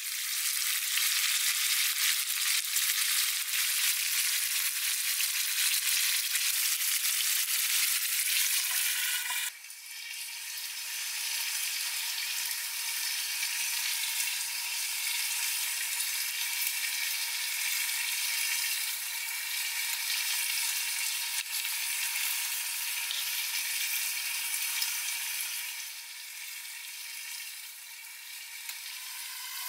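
Merguez sausages and eggs frying in a lidded pan over a wood campfire: a steady, sizzling hiss. It drops suddenly to a lower level about a third of the way in, then softens again near the end.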